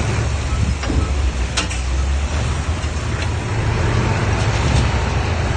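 Diesel engine of heavy earthmoving machinery running steadily with a deep rumble, with a few short sharp clanks about a second and a half in.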